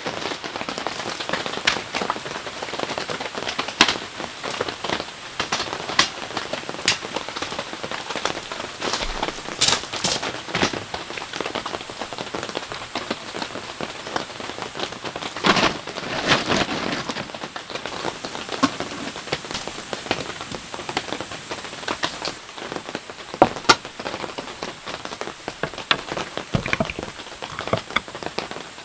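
Heavy rain falling steadily, with many sharp, separate drops striking loudly close by.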